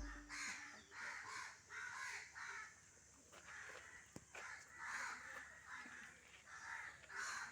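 A bird calling over and over in short, rough calls, about two a second and often in pairs.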